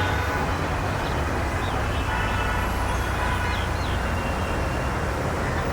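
Steady urban traffic rumble, with a few faint short bird chirps above it.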